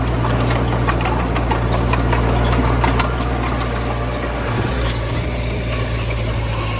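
Diesel engine of heavy earthmoving equipment running steadily, with scattered short clanks and rattles.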